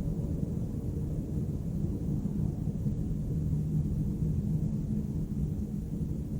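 Steady low rumble of city background noise, the hum of distant traffic, with no single sound standing out.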